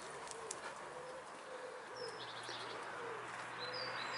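Birdsong outdoors: a pigeon cooing in a run of short, low, repeated notes, with small birds chirping and trilling high above it.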